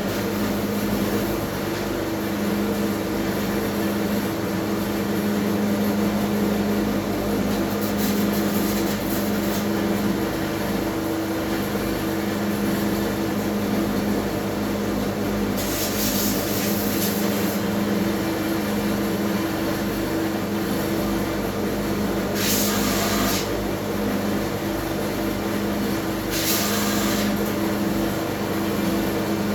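A workshop machine's electric motor running with a steady hum. Three short bursts of hissing contact noise come about 16, 22 and 26 seconds in as a metal part is cleaned up on it. The motor winds down right at the end.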